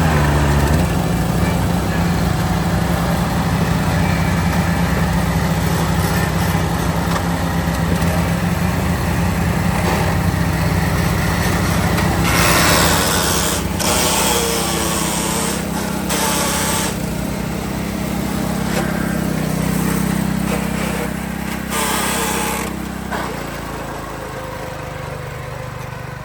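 Riding lawn mower engine running steadily at racing speed. Several short, loud rushing bursts come in the second half, and the engine note drops away near the end.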